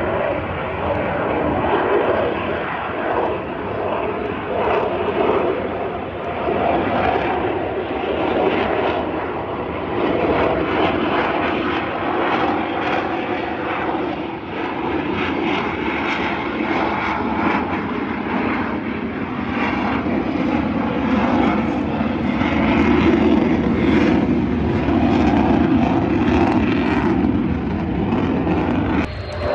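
Fixed-wing aircraft engine noise from a plane in flight: a continuous rushing drone that swells and eases. It breaks off abruptly near the end.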